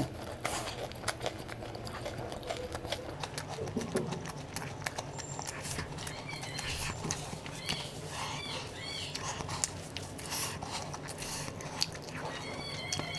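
Close-miked chewing of spicy instant noodles: wet mouth clicks and smacks over a low steady hum. A few short, high chirping squeaks come in about halfway through and again near the end.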